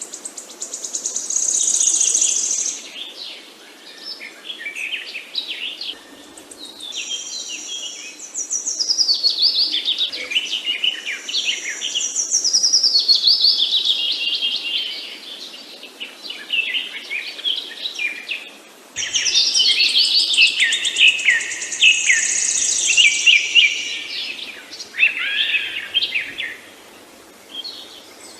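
Several songbirds singing and chirping together, with trills and falling whistled phrases overlapping, loudest in bouts around two, nine to fourteen, and nineteen to twenty-three seconds in.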